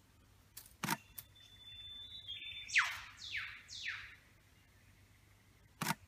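A bird calling: a thin steady whistle, then three quick whistled notes that each slide steeply down in pitch, the first the loudest. A few sharp clicks come about a second in and again near the end.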